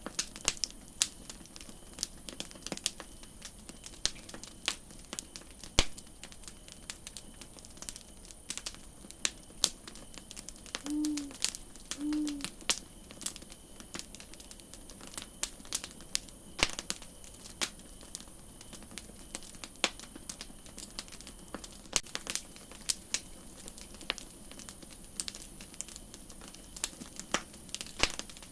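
Campfire crackling: irregular sharp pops and snaps of burning wood over a soft steady hiss, with two short low hoots about a second apart near the middle.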